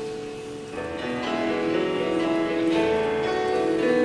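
Instrumental accompaniment between sung lines of a song: held piano chords that change about three quarters of a second in and again near three seconds.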